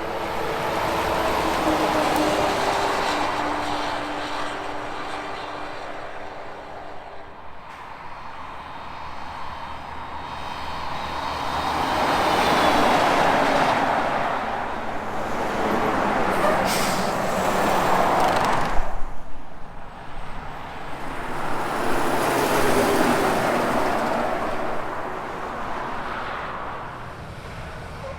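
Semi trucks and other highway traffic passing one after another, the tyre and engine noise swelling and fading about four times. Over the first several seconds a truck engine's note steps down in pitch.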